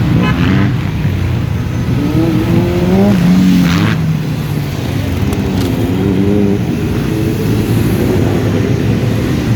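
Several motorcycle engines running loud in a slow-moving group, revving up and easing off, with a short shrill sound about four seconds in.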